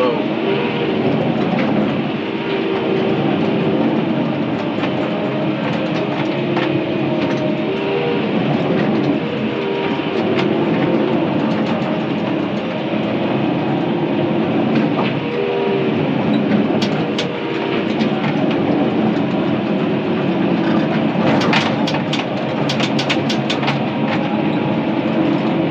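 Bulldozer's diesel engine working under load while its steel tracks clank and squeal, pushing a blade full of brush. A quick run of sharp clacks comes near the end.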